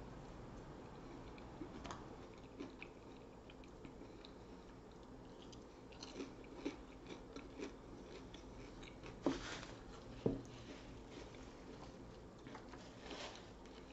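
Chewing and biting food: soft mouth sounds with scattered crisp crunches, and two louder crunches about nine and ten seconds in.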